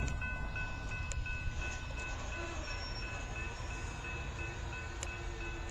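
Low steady rumble of a train approaching in the distance, with a faint high steady ringing over it.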